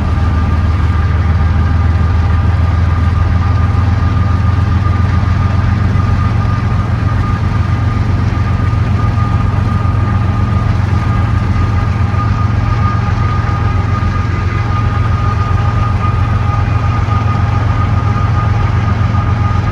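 Diesel-electric freight locomotive engine running steadily: a deep, fast-pulsing rumble with a steady whine above it.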